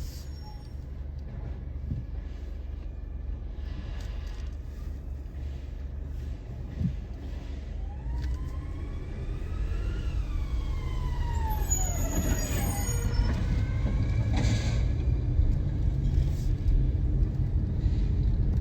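Low, steady rumble of vehicle engines. A pitched whine rises for about two seconds and then falls away again about halfway through.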